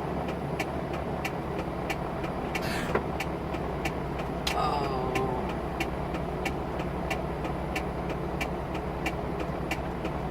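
Hazard-light relay ticking steadily, about three ticks a second, inside the cab of a commercial truck, over the steady hum of its diesel engine.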